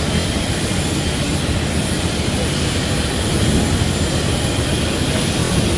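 Airliner jet engines running, a steady, even rushing drone with a heavy low rumble.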